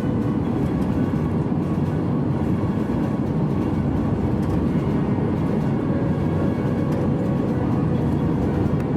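Steady airliner cabin noise: the even rumble of the jet engines and airflow as heard from inside the passenger cabin.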